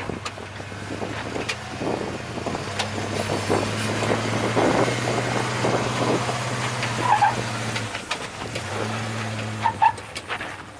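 Off-road vehicle engine running at a steady low pitch that drops out briefly near the end and comes back, with scattered knocks and crunches over it.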